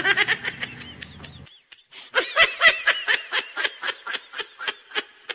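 Dubbed-in laughter sound effect: a short laugh, then, after a brief pause, a fast run of short laughs at about seven a second.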